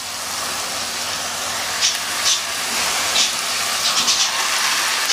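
Rice, vegetables and tomato purée sizzling in a hot pan as a spatula stirs them, with several short scrapes of the spatula against the pan.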